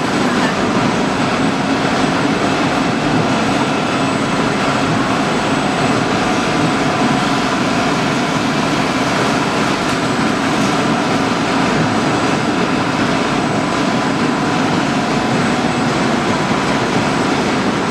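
Waste-tyre pyrolysis plant machinery running: a loud, steady mechanical noise with a constant low hum, while the plant is being fed.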